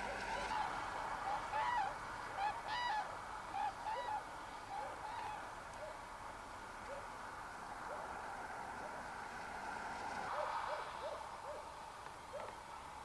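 A flock of common cranes calling, many short trumpeting calls overlapping. The calls are loudest and densest in the first half, then come fainter and more scattered.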